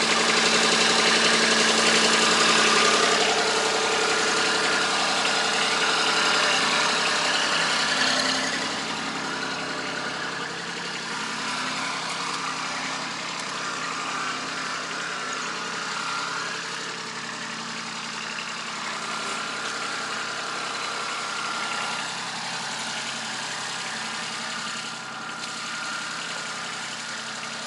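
Compact tractor's engine running steadily, dropping in level about eight seconds in and staying lower.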